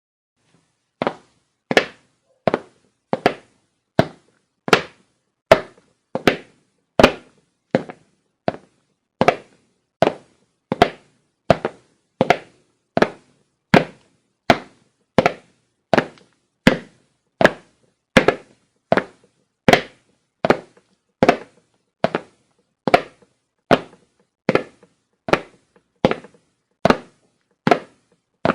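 Footsteps on a wooden floor: a steady walk of about four steps every three seconds, each step a short hard knock.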